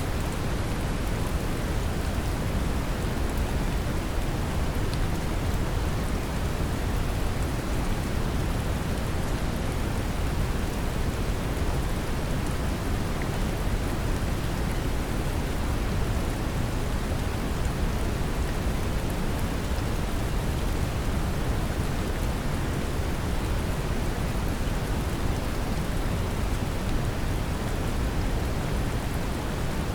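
Steady brown noise, strongest in the low end, mixed with gentle rain falling, an even unbroken hiss with no distinct events.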